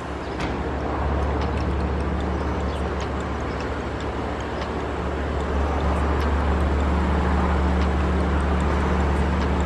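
A car running with a steady low engine drone that grows louder about half a second in and again at about six seconds.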